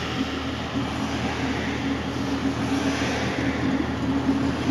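A 6.0-litre LS-series V8 idling steadily through open headers with no mufflers fitted, a continuous unsilenced exhaust with an uneven low pulse.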